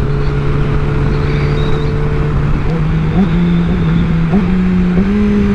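Sport motorcycle engine running at steady revs under wind rush on the rider's microphone; from about three seconds in, the engine note climbs in several small steps.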